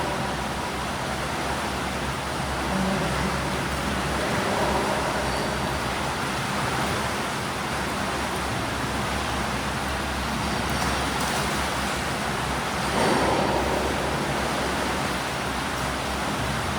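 Steady rushing water noise of swimmers doing breaststroke drills in a swimming pool.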